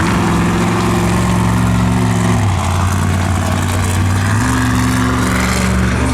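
Monster truck engine running at held revs. The pitch steps down about two and a half seconds in and back up about two seconds later.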